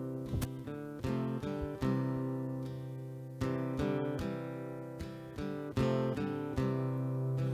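Acoustic guitar playing a picked and strummed introduction: chords and single notes struck every half-second or so, each ringing and fading before the next.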